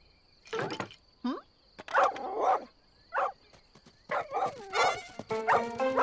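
A collie barking in a series of short, separate barks, about five over several seconds. Background music comes in near the end.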